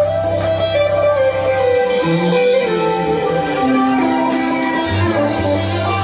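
Live rock band playing an instrumental passage: electric guitar holding long sustained lead notes over a steady electric bass line.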